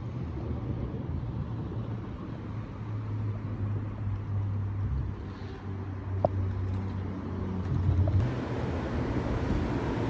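Steady low hum and rumble of a moving vehicle.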